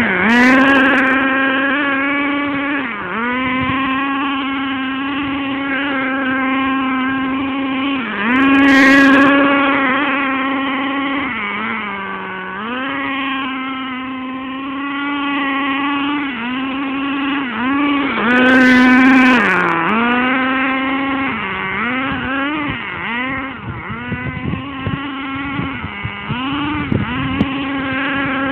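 Nitro two-stroke glow engine of a radio-controlled monster truck running at high revs with a high, buzzing tone, its pitch dipping several times as the throttle eases and climbing back. Two louder surges come about nine and nineteen seconds in.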